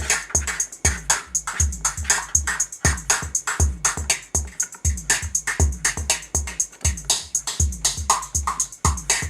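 KORG Kaossilator playing an electronic drum-machine loop: a steady beat with a deep kick that drops in pitch about twice a second, under bright hi-hat ticks and snappier mid hits.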